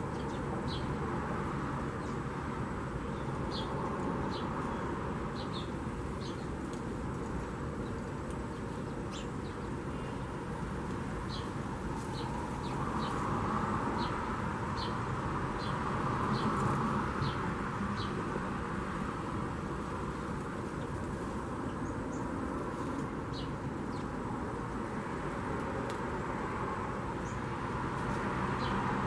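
Small birds chirping: many short, high chirps scattered irregularly throughout, over a steady background rumble that swells for a few seconds in the middle.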